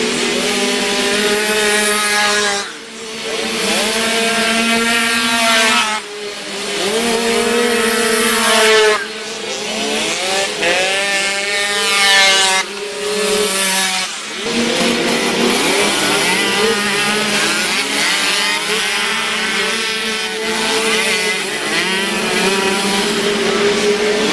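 Derbi Variant 49 cc two-stroke moped engines racing, revving up and falling back again and again, with more than one engine heard at once. The sound breaks off abruptly several times.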